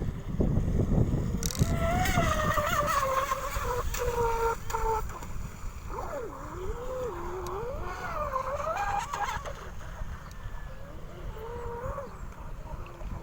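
Electric motor of a radio-controlled outrigger boat whining, over a low rushing noise. The pitch falls steadily over a few seconds, then rises and falls repeatedly as the throttle is varied.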